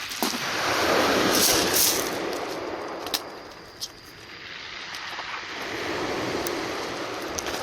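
Sea waves washing in, swelling twice about five seconds apart, with a few sharp clicks in between.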